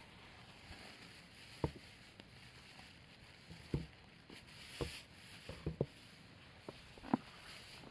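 Wood campfire crackling: sharp, irregular pops, about six of them, over a faint hiss of burning.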